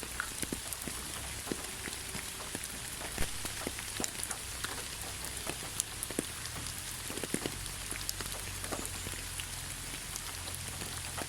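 Raindrops falling steadily, with a constant hiss of rain and many separate drips and taps landing close by at irregular intervals.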